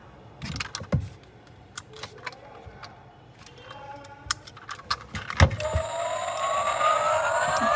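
1/24 scale diecast model car being handled: scattered sharp clicks and taps. About two-thirds of the way in, after a loud click, a toy car whine starts and rises steadily in pitch.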